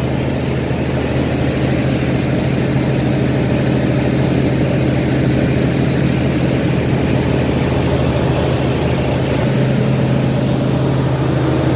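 Diesel engine of the pusher boat running steadily under way, a deep even drone with no change in speed.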